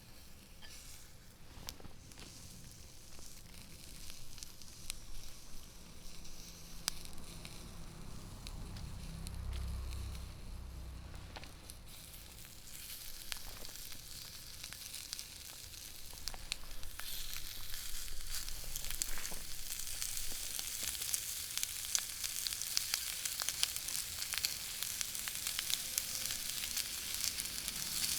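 Chicken thigh pieces searing skin-side down in a dry cast-iron skillet over a wood fire: a steady sizzle with fine popping of fat, which grows louder and busier after about two-thirds of the way in. A brief low rumble comes near the middle.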